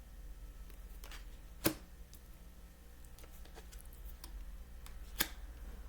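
Tarot cards being handled and laid down: two sharp taps about three and a half seconds apart and a few faint ticks, over a steady low hum.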